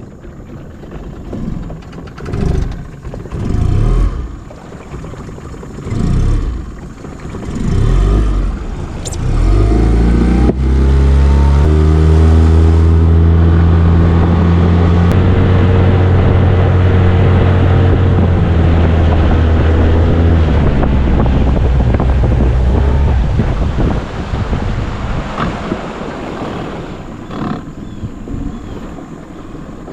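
Jon boat's motor speeding up about ten seconds in, then running at a steady pitch while the boat travels, with wind on the microphone; it eases off about two-thirds of the way through. Before it starts there are several low, uneven knocks.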